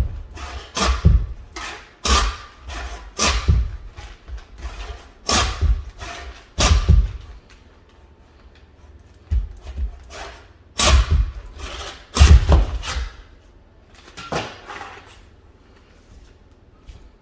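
Close-miked eating noises from a bowl of buffalo-leg soup: a string of loud, irregular bursts about a second apart, thinning out near the end.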